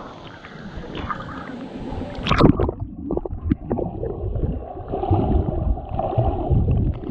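Water splashing and gurgling around swimmers in a pool, with a sharp splash about two and a half seconds in.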